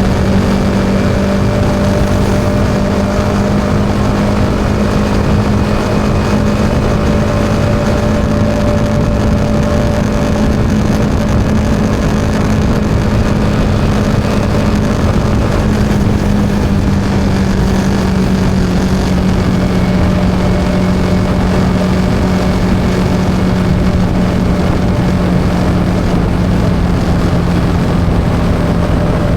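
Yamaha XSR 155's single-cylinder engine running at a steady cruise, with road and wind noise. The engine note holds steady, then eases slightly lower about halfway through.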